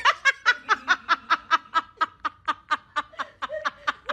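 A person laughing in a quick, even run of short snickering bursts, about five a second.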